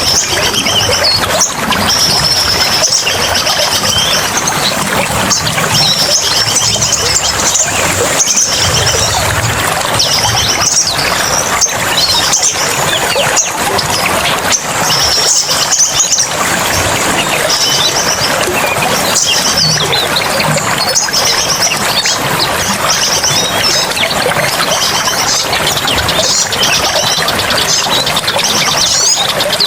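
Small birds chirping and twittering in rapid, high-pitched calls, over a steady rush of running water.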